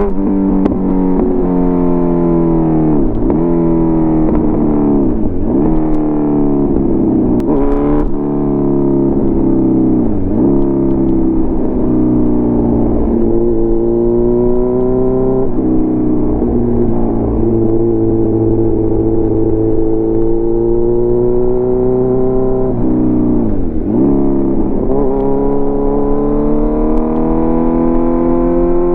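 Kawasaki Z900's inline-four engine through an SC Project CRT exhaust, running under load with its pitch climbing slowly, broken every few seconds by a sharp drop and quick recovery as the throttle is shut or a gear is changed.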